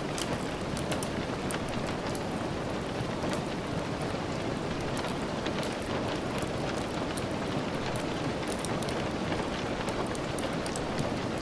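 Steady rain with a wood fire crackling: an even hiss with many small sharp pops scattered through it.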